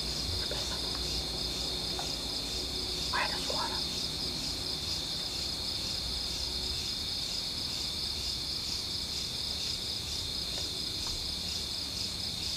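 Insects chirring steadily in a high, evenly pulsing chorus. A brief faint call sounds about three seconds in.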